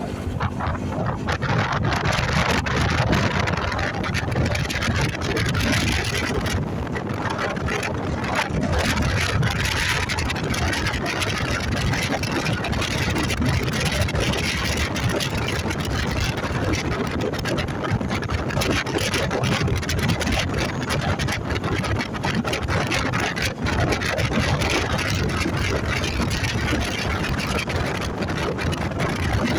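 Motorcycle running steadily under way, its engine sound mixed with wind rushing over the microphone.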